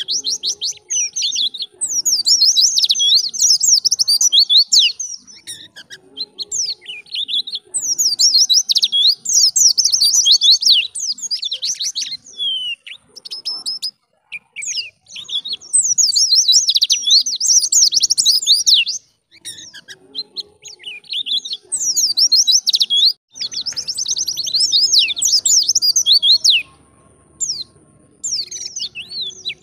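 White-eye (pleci) singing in a loud, lively style: fast, twittering chirping phrases of several seconds each, broken by short pauses.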